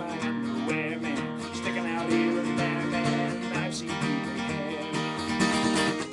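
Acoustic guitar strummed steadily in chords, accompanying a comic song.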